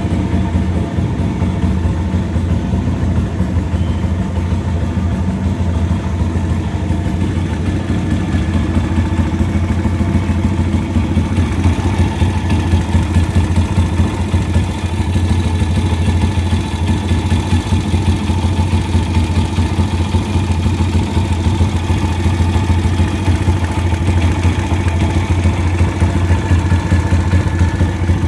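Pit bike's YX 140 single-cylinder four-stroke engine idling steadily.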